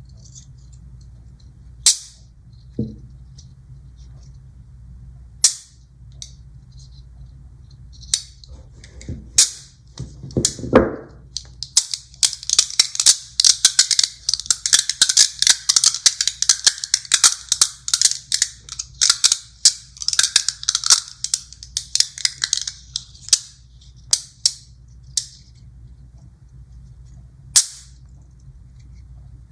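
Small magnet balls snapping together in sharp clicks: a few single clicks, then a dense clattering run of rapid clicks lasting about ten seconds, then a few more single clicks near the end.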